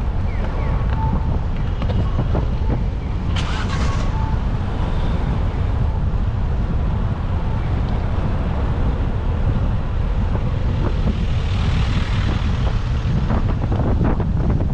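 Wind buffeting the microphone of a camera on a moving bicycle: a steady low rumble, with a short burst of hiss about four seconds in and a broader hiss swelling near the end.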